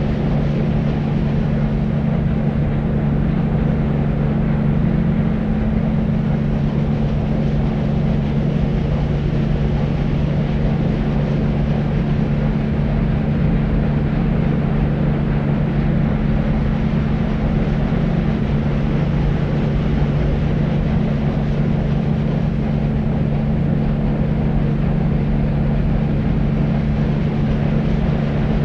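Deep white noise for sleep: a steady, unchanging low rumbling hiss with a constant low hum running through it.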